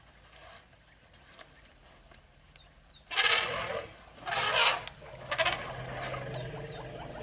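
Elephant trumpeting: two loud, harsh blasts about a second apart, a few seconds in, after a quieter stretch with faint bird chirps.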